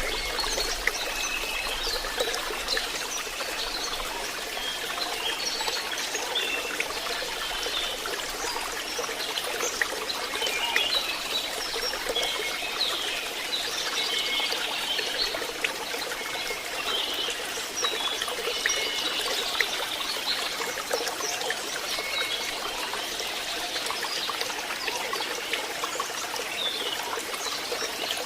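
Water trickling and running steadily, like a small stream, with many short bird chirps scattered over it.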